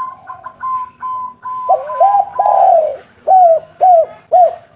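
Spotted dove (tekukur) cooing: a run of low coos from about two seconds in, ending in three short, evenly spaced arched coos. A thin, steady higher tone sounds over the first half.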